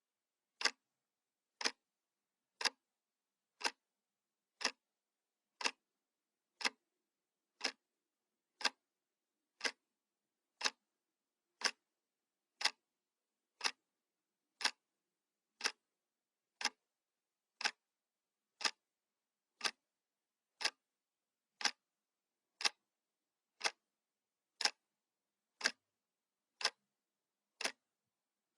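Analog wall clock ticking steadily, one sharp tick each second with silence between ticks.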